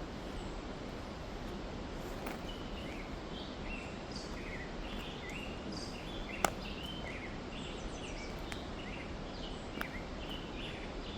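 Birds chirping in short, repeated calls over a steady background hiss, with a single sharp click about six and a half seconds in and a fainter one near the end.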